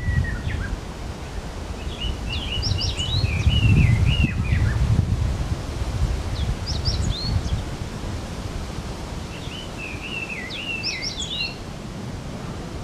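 A songbird singing three quick warbling phrases of high, rapidly changing notes, about three to four seconds apart, over a steady low rumbling noise that swells for a moment near the first phrase.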